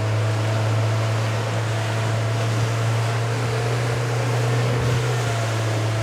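Honda 75 outboard motor running steadily at planing speed, a constant low drone with wind and water hiss over it.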